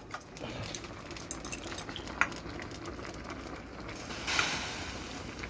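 Chopsticks clicking and tapping against a pot while stirring ramen noodles, with a short hiss about four seconds in.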